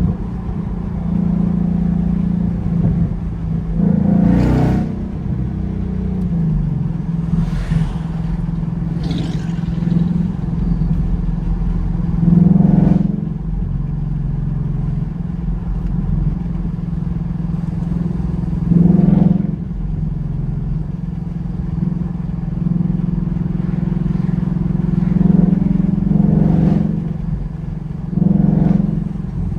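Ford Mustang GT's 5.0 V8 engine and exhaust while driving: a steady low drone that swells in several brief surges of throttle, the loudest about twelve, nineteen and twenty-eight seconds in.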